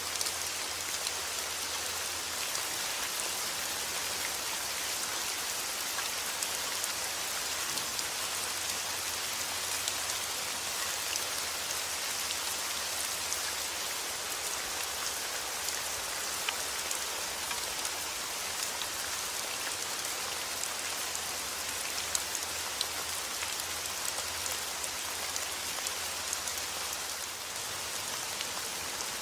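Heavy rain falling steadily outdoors, a dense even hiss with scattered sharp drop ticks.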